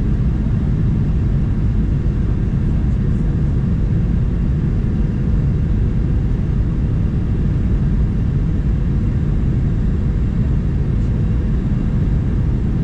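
Steady cabin noise inside a Boeing 737-900: a low, even rumble from the engines and airflow, with a faint steady tone above it.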